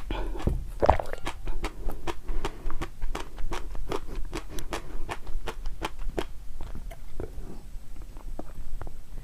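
Close-miked chewing of crunchy food: a quick, irregular run of sharp crunches, several a second.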